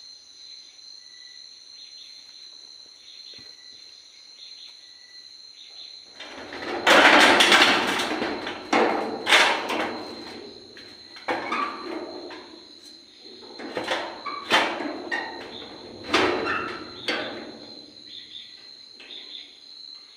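Crickets chirping steadily in the background. About six seconds in, loud irregular noise close to the microphone breaks in, in clusters of several seconds, and dies away a couple of seconds before the end.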